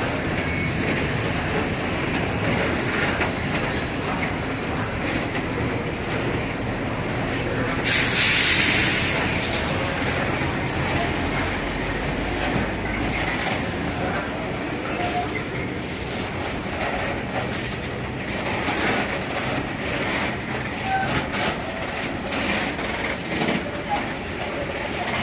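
Freight train running through a station, a steady rumble of wheels and wagons. A loud hiss about eight seconds in lasts roughly two seconds, and short clanks and brief squeals come in the second half.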